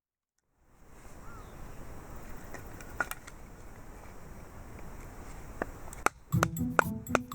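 Outdoor ambience: a steady low noise with a few faint clicks. About six seconds in, music with pitched notes and clinks starts.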